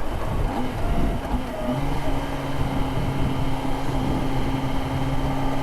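Kawasaki ZX-10R inline-four engine running under wind rush on the helmet microphone, settling into a steady, even note about two seconds in.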